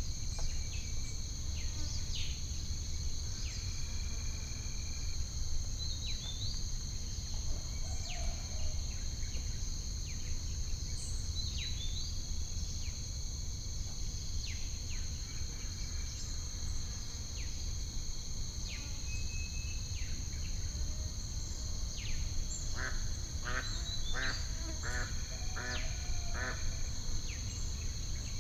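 Steady high-pitched drone of crickets with scattered short bird chirps, over a low steady rumble. Near the end comes a run of duck quacks.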